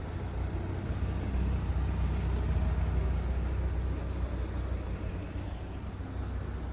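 Low rumble of a car engine nearby that swells and then eases off over a few seconds, as a car moves slowly past.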